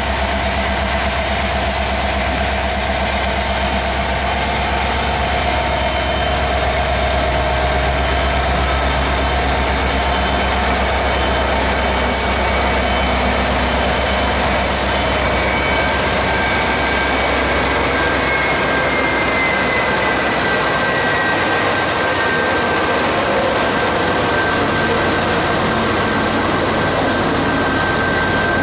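Diesel-electric freight locomotives passing at close range with a deep, steady engine rumble that drops away about twenty seconds in, leaving the steady rolling noise of open-top freight cars on the rails.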